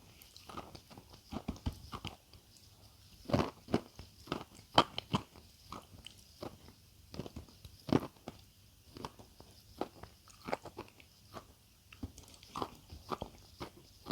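Close-miked crunching and chewing of crisp food: irregular crackly bites and crunches, the loudest about five seconds in.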